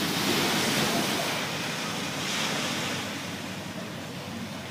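Sea water rushing and splashing past a sailing boat under way, with wind on the microphone; the rush swells in the first second or so and again about two seconds in.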